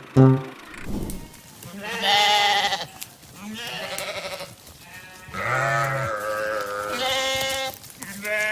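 Sheep bleating several times, each call a wavering baa lasting under a second.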